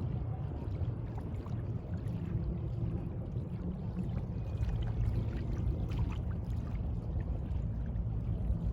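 Sea water washing and lapping, over a steady low rumble.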